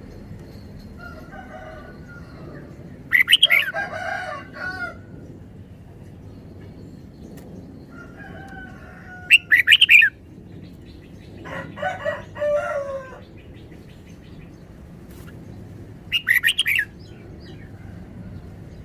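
Red-whiskered bulbul singing in four short, loud phrases of warbling, chirping notes, spaced several seconds apart.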